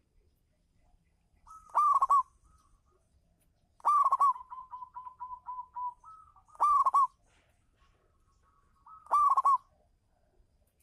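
Zebra dove (local perkutut) singing its cooing song. Four phrases come about every two and a half seconds, each a short lead note and then a loud rolling trill. After the second phrase comes a quick string of short, even coos.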